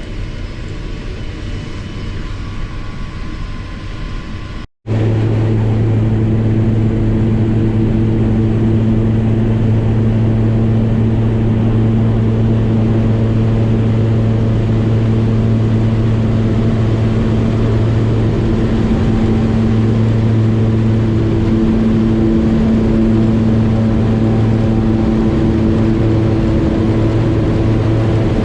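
Float plane's propeller engine running steadily, heard from inside the cabin. About five seconds in, a cut brings a louder, deeper, even hum.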